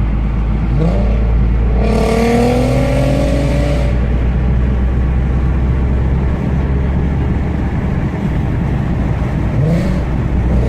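VW Golf Mk5 R32's 3.2-litre VR6 engine through an R20 exhaust, pulling hard under acceleration: a loud, steady deep drone with rising sweeps in pitch about a second in, from about two to four seconds in, and again near the end.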